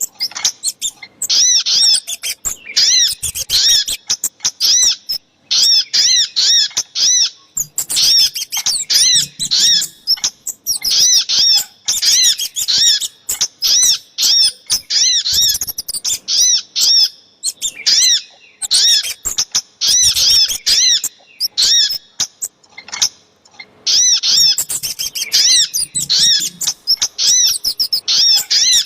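Recorded bird-lure calls of the little spiderhunter (sogok ontong): rapid runs of sharp, high chirps in bursts of a second or two, broken by short pauses, mixed with the calls of a second lure bird.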